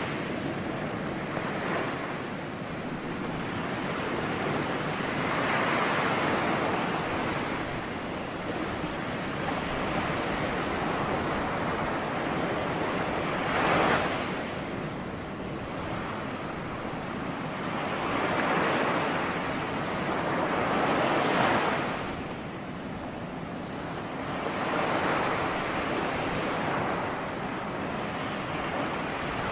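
Ocean waves washing in continuously, with a swell of surf every few seconds; the sharpest breaks come about a third and two thirds of the way through.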